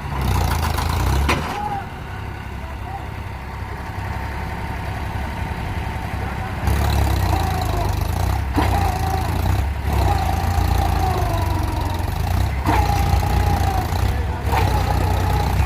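Tractor diesel engines running steadily, getting louder a bit under halfway through, with a few brief sharp knocks and voices over them.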